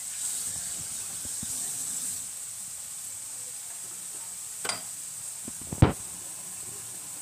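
Ground onion, garlic and ginger paste sizzling steadily in hot oil in a steel kadai as it fries. Near the end come two sharp knocks about a second apart, the second louder.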